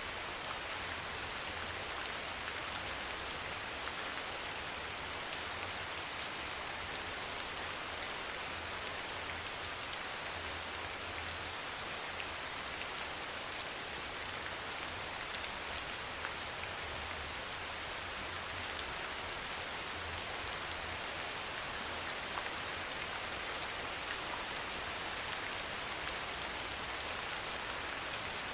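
Steady rain falling, an even dense hiss with fine pattering of individual drops. A low rumble comes and goes underneath.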